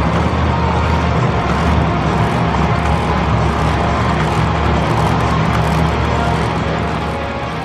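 Monster truck engine running loud inside a stadium, a steady deep engine note.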